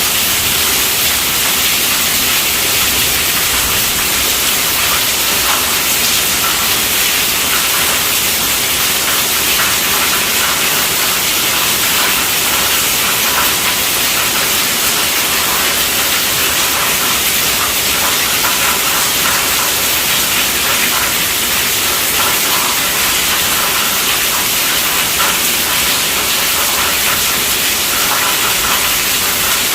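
Steady rainfall, a dense even hiss of drops with faint fine spattering.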